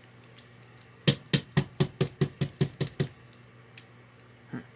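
A quick run of about nine sharp knocks, roughly four or five a second, then one softer knock near the end: the small metal motor of a Marx 666 toy locomotive being rapped to shake loose a carbon brush that has fallen down inside it.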